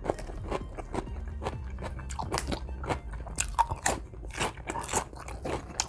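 Close-miked person chewing a mouthful of rice and vegetables stewed in coconut milk, with many irregular sharp wet mouth clicks and smacks.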